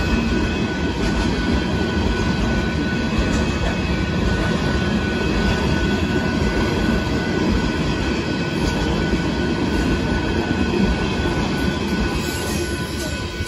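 Loaded rock cars of a freight train rolling by at a grade crossing, a steady rumble of wheels on rail. Over it the crossing bell rings as steady high tones. The rumble eases slightly near the end as the last car passes.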